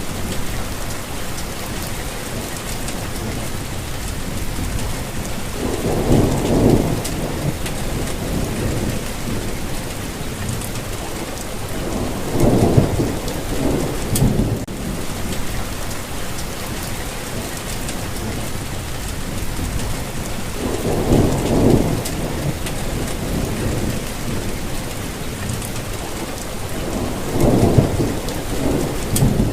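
Steady rainfall hiss with four short, low rumbles, spaced roughly six to eight seconds apart.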